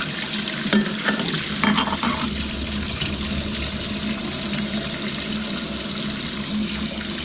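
Water running steadily from a tap over a stainless steel French press filter being rinsed, with a few light knocks in the first two seconds.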